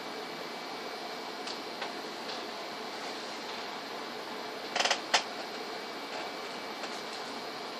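Steady background hiss with a quick rattle of small clicks and one sharp click about five seconds in.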